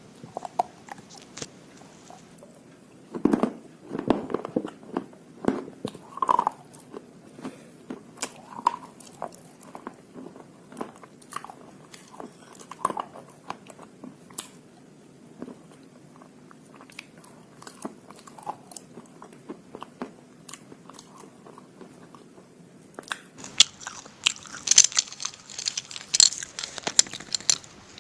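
Close-up crunching and chewing of slate pencils dipped in slate-pencil paste: irregular crisp bites and grinding chews. Louder, sharper crunches come in the last few seconds.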